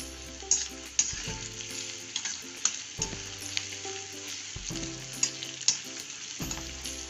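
Chopped onions, peanuts, green chillies and fresh curry leaves sizzling in hot oil in an iron kadai. A steel slotted spoon stirs them, with sharp clinks and scrapes against the pan every second or so.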